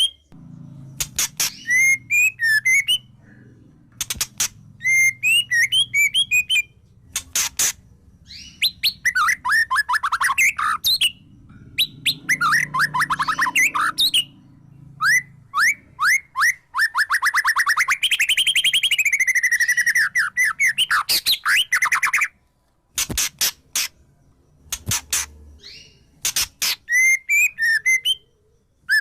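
A songbird singing loud, varied phrases of rapid chirps and trills broken by short pauses, including one long, fast trill about two-thirds of the way through.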